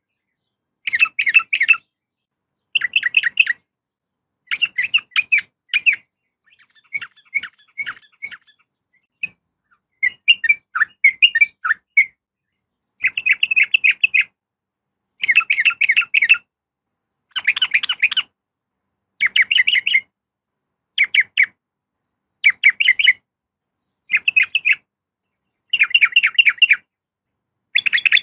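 Yellow-vented bulbul (trucukan) calls, sold as a female calling for a male: short bursts of quick chattering notes, about one burst every two seconds, with clean silences between them.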